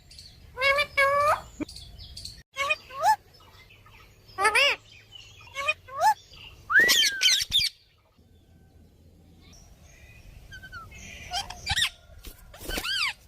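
Pet parrot calling in a string of short, pitch-bending calls, one every second or two, with a pause of a few seconds past the middle before two more calls near the end.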